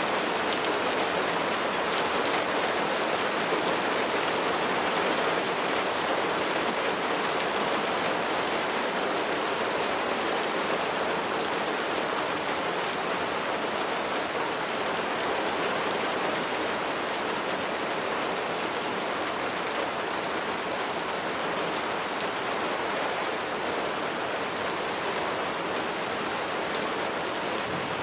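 Steady rain falling: an even hiss of many raindrops on a surface.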